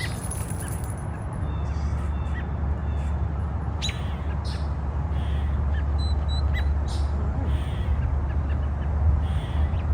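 Wild birds calling in short, scattered chirps and calls every second or so, over a steady low rumble.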